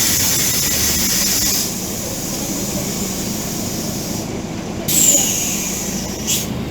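Scania OmniCity city bus's compressed-air system hissing. The first release fades out under two seconds in, and a second starts suddenly about five seconds in with a brief falling whistle, then dies away, over the low hum of the idling diesel engine.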